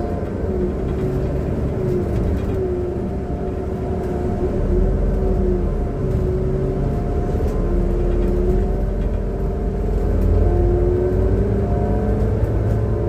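Transperth city bus TP1422 heard from on board: a steady engine rumble with a whine that climbs and drops back several times. The uploader calls this a bad engine sound.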